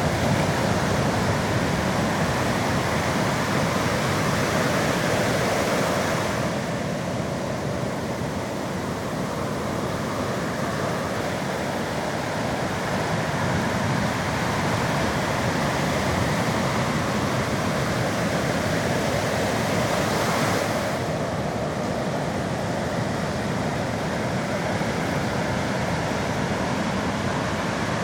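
Sea surf on the shore: a steady rushing of waves, its hiss thinning abruptly twice, about six seconds in and again near twenty-one seconds.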